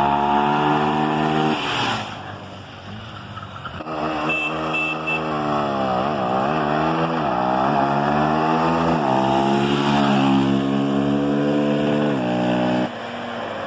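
Honda 250 cc single-cylinder motorcycle engine revving hard. Its note holds high, drops away briefly, then dips and climbs several times and rises steadily before cutting off sharply near the end.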